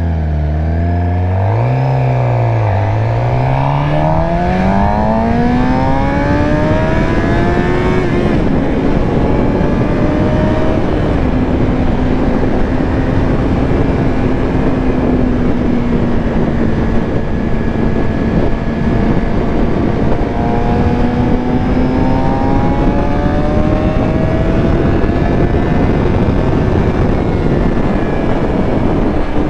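Suzuki GSX-R600's inline-four engine under way: it rises in pitch as the bike accelerates for the first several seconds, drops as it shifts up about eight seconds in, then holds a steady pitch while cruising, easing a little and picking up again near the end. Steady wind noise runs underneath.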